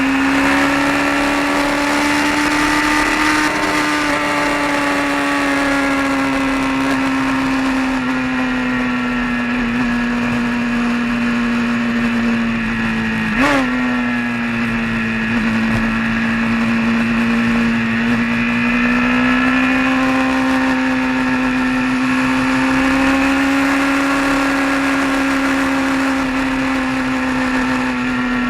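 A vehicle's engine runs steadily while driving on the road, its pitch slowly rising and falling with speed. About halfway through there is a click and a quick jump and dip in pitch.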